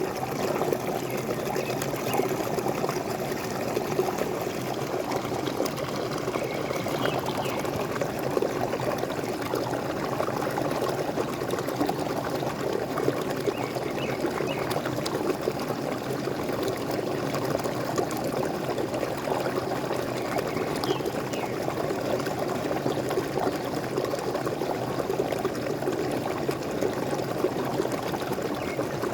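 Waterfall: water pouring and splashing steadily, with a few faint bird chirps over it.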